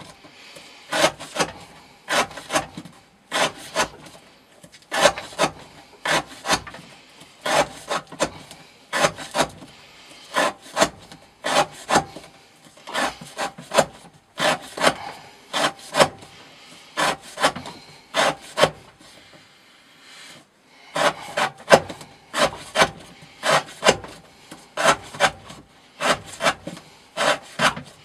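Knife blade repeatedly slicing through rope onto a wooden board, a dry scraping cut about twice a second, with a short pause a little past the middle: a rope-cutting edge-wear test.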